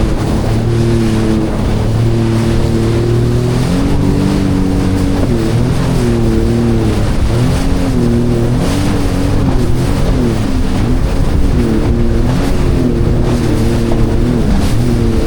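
Jet ski engine running under way, its pitch rising and falling as the throttle and load change, over a steady rush of wind and water.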